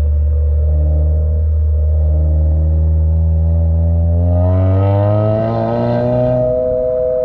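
Engine of a road vehicle heard close up while driving, holding a steady low note, then accelerating from about halfway with its pitch rising for a couple of seconds before settling on a higher steady note.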